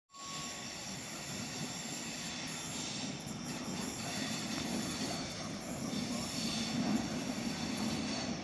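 Passenger train approaching along the track: a steady rumble of wheels on rail with thin high squealing tones over it, growing slightly louder as it comes.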